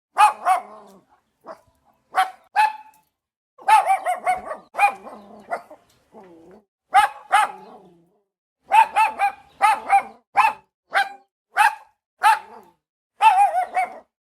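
Dog barking repeatedly: short barks, some single and some in quick runs of two to four.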